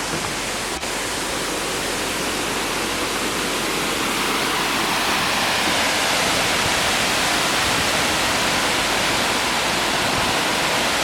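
Brandywine Falls' waterfall giving a steady rush of falling water, growing a little louder about halfway through.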